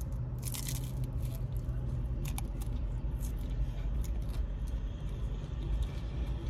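Crunchy hard corn taco shell being bitten and chewed: a crisp crunch about half a second in, then scattered crackling crunches of chewing, over a steady low hum.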